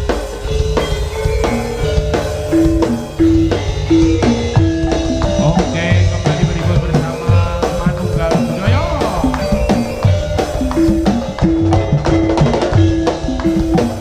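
Javanese jaranan accompaniment music: drums beating a busy rhythm under short, repeating pitched notes.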